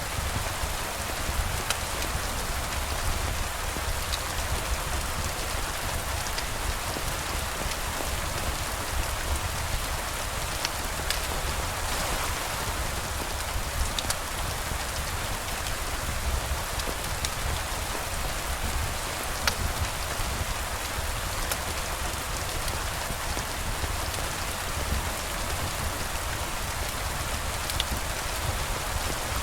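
Steady rain falling, an even hiss with a low rumble beneath and scattered sharp ticks.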